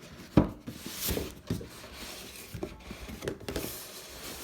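Cardboard packaging being handled as a printed sleeve is slid off a box: a sharp knock near the start, then cardboard rubbing and scraping with small knocks.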